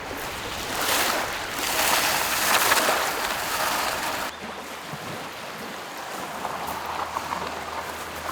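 Lake waves washing onto the shore, swelling loudest in the first few seconds. About four seconds in, the sound drops abruptly to a quieter wash with small ticks.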